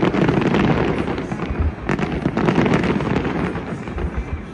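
Aerial fireworks going off: a dense, rapid crackle of bursting shells, with deep booms and one sharp bang about two seconds in, and more booms near the end.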